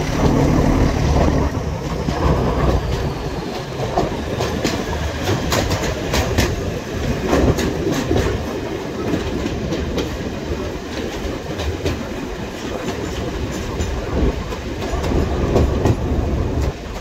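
Riding aboard a heritage diesel train: a steady running rumble with wheels clicking over the rail joints at irregular intervals.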